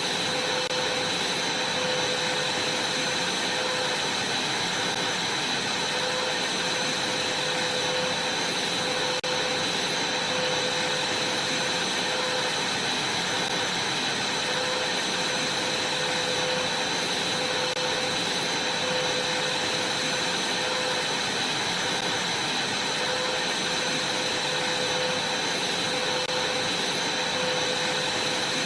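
Vacuum cleaner running steadily on a trampoline: a constant rushing hiss with a steady high whine and a lower hum.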